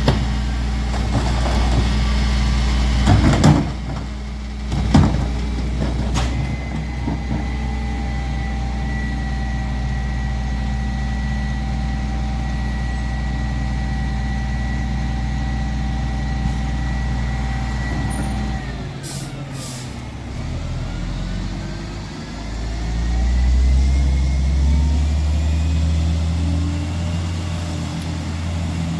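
Mack MR Heil 5000 rear-loader garbage truck's diesel engine running steadily with a constant high whine, with two sharp bangs a few seconds in. About two-thirds of the way through, air brakes hiss, and the engine then revs with a rising, high-pitched note.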